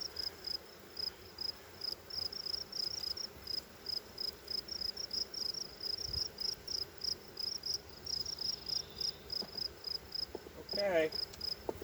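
Steady insect chirping, about four short high-pitched chirps a second, over a faint low hum of honeybees around the open hive.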